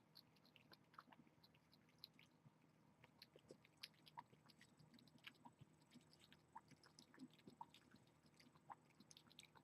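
Near silence with faint, irregular small clicks scattered throughout, over a low steady room hum.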